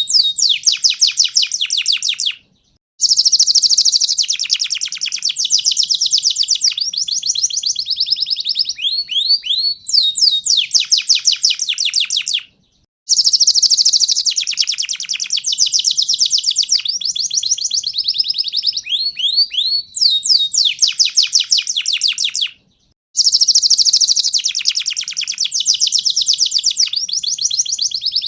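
Domestic canary singing a long, loud song of fast repeated trills and rolling phrases, high-pitched. It breaks off three times for about half a second.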